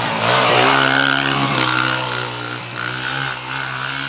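Pit bike's small 125 cc air-cooled four-stroke engine revving up in the first half second, then running at a steady, fairly high speed before it drops back near the end.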